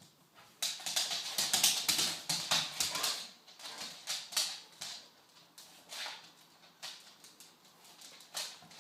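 An American pit bull's paws scrabbling and thudding as he spins chasing his tail: a dense flurry of scuffs over the first few seconds, then a few scattered scuffs.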